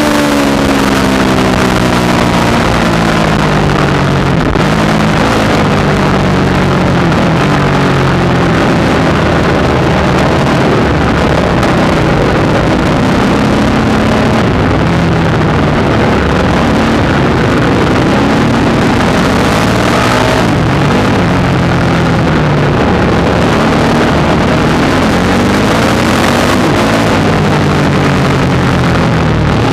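Supermoto motorcycle engine heard onboard while lapping a track, its pitch climbing as it accelerates, dropping at gear changes and falling away when slowing for corners, over and over. A steady rush of wind noise runs under it.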